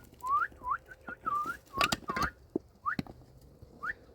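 A person whistling short, quick rising notes again and again to call a dog. A few sharp knocks come in between.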